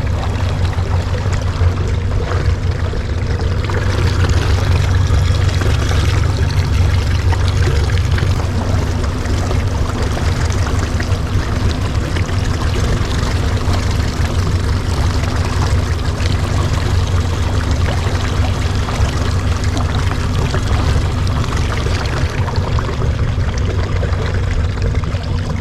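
Small boat's motor running steadily under way, with water rushing and splashing along the hull.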